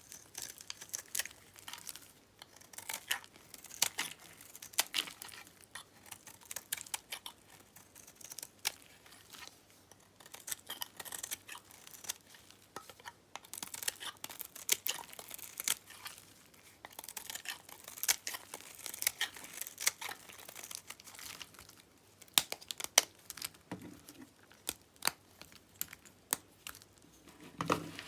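Knife cutting through a bar of dyed soap, making a run of irregular crisp crackles and snaps as the blade goes through.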